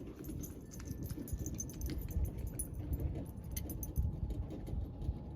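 Light metallic clinking and rattling of small metal parts and tools being handled, with irregular low knocks.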